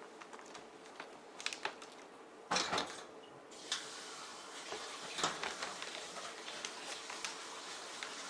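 Miniature dachshund drinking water from a bowl: irregular clicking and clinking of the lapping and the bowl, with a louder clatter about two and a half seconds in.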